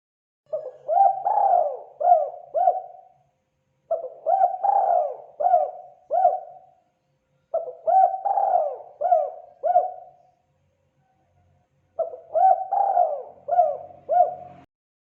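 Spotted dove cooing: four phrases, each a run of about five coo notes, separated by short pauses.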